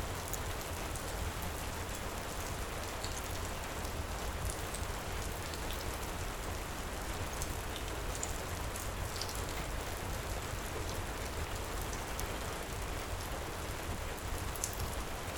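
Heavy rain pouring steadily, with a low rumble underneath and scattered short, sharp ticks.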